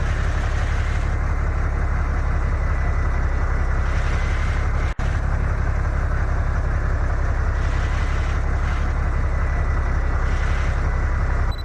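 Heavy truck engine running with a steady, loud low rumble and a faint steady whine above it; the sound drops out for an instant about five seconds in.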